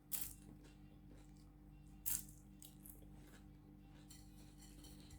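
Two short crunches of thin, crispy rugag bread being bitten, about two seconds apart.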